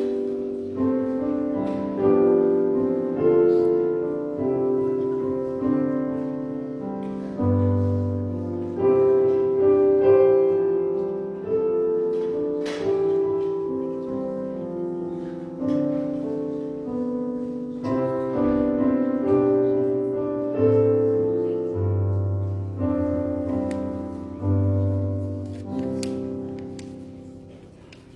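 Solo piano playing slow music in struck chords, each chord dying away after it is struck; the music fades out near the end.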